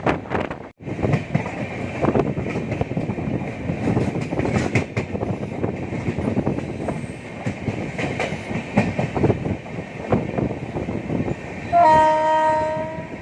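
Passenger express train running along the track: a steady rumble with wheels clattering over the rails. About twelve seconds in, a train horn sounds once for just over a second.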